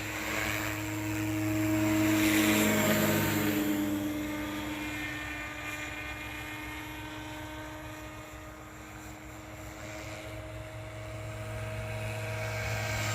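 SAB Goblin 570 electric RC helicopter flying, its three-blade rotor and motor giving a steady whine. It grows louder as it passes close about two to three seconds in, fades toward the middle, then comes back louder near the end.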